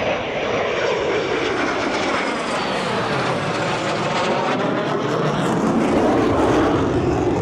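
Aircraft passing overhead in a flyby: a loud, rushing engine roar that swells to its loudest near the end.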